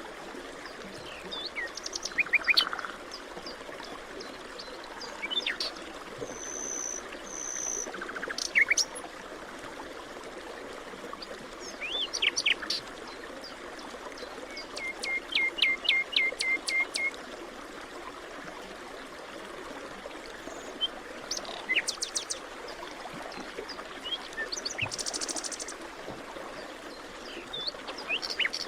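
Forest birds singing and calling in scattered phrases, including a quick run of repeated notes about halfway through, over a steady background hiss.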